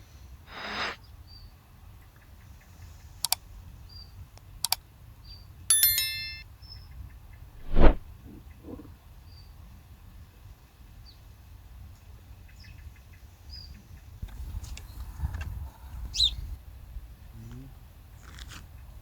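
Scattered handling sounds: a few sharp clicks, a short ringing metallic clink about six seconds in, and a heavier thump near eight seconds, over faint high chirps.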